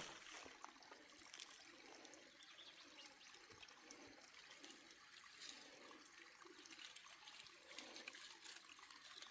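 Faint trickling water, with a few light clicks.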